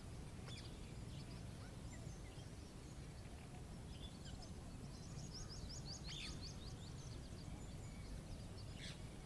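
Several birds calling: scattered short chirps and a rapid high trill about five seconds in. Under them runs a steady low rumble.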